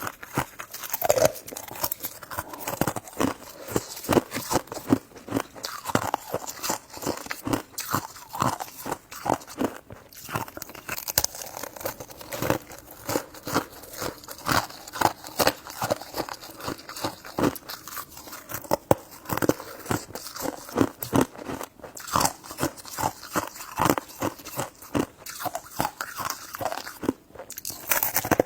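A person biting and chewing food close to the microphone: a steady run of irregular crunching and wet mouth clicks.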